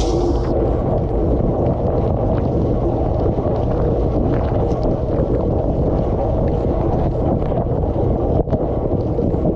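Dishwasher running mid-cycle, heard from inside the tub: water from the spray arms pelting the dishes and the camera, over the churning of the wash pump. A steady, dense rush of water.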